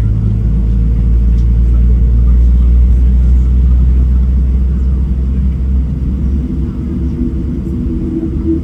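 Boeing 737-700 cabin noise: a loud, steady low rumble from the CFM56 jet engines and airframe. The deepest rumble eases about six seconds in, and a steady droning hum comes up near the end.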